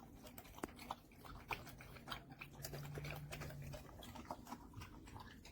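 A dog eating from a raised bowl, chewing and crunching its food in a run of irregular, crisp clicks. A brief low hum sounds about the middle.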